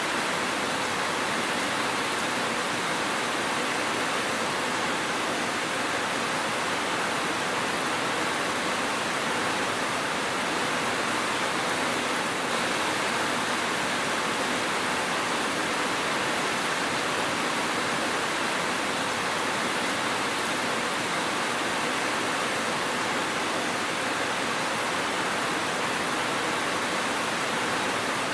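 Steady rain, an even hiss that never changes, with no separate drops or thunder standing out.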